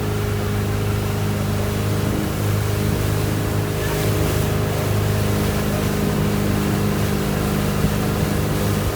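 Motorboat engine running at a steady pitch, with the rush of water and wind over it.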